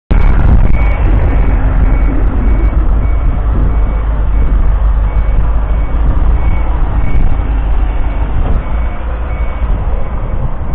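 1967 Ford 3000's 2.9-litre three-cylinder diesel engine running steadily, getting a little quieter near the end. A faint high beep, like a reversing alarm, repeats about every half second in the background.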